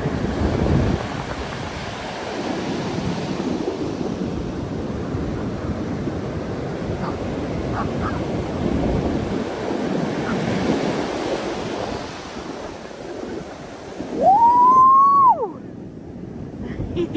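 Surf washing up the beach in slow swells every few seconds, with wind buffeting the microphone. About two seconds before the end, one loud high call rises sharply, holds briefly and drops away.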